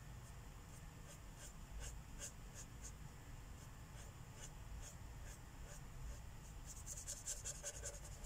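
Felt-tip marker drawn across paper in short, scratchy colouring strokes, with a quicker run of strokes near the end.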